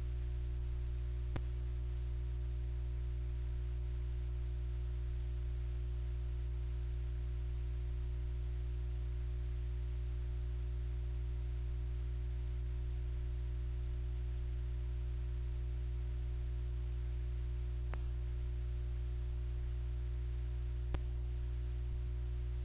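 Steady low electrical hum made of several fixed pitches, with three faint clicks: one about a second and a half in and two near the end.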